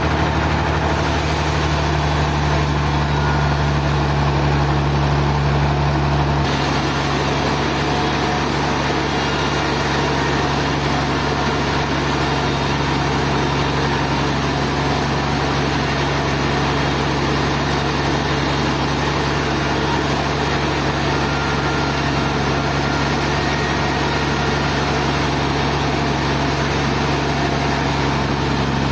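Sawmill machinery running steadily: an engine hum under a constant dense, hissing noise. About six and a half seconds in the sound changes suddenly, the hiss filling in higher up and the low hum shifting, then it runs on evenly.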